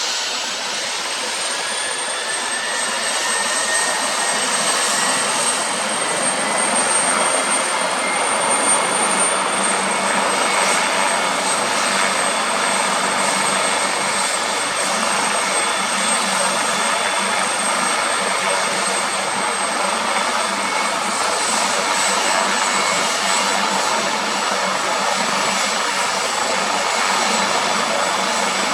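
Emergency helicopter's turbine engine running with a steady rushing noise and a high whine. The whine's pitch rises a little over the first few seconds, then holds.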